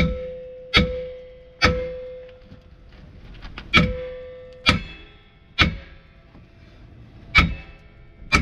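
Hammer blows on a rear brake drum, knocking it loose: about eight sharp metal strikes at uneven intervals, several leaving the drum ringing.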